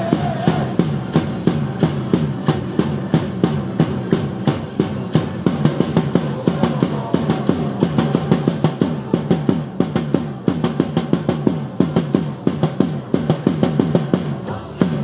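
Baseball cheer song playing loudly over the stadium sound, with a fast, steady drum beat.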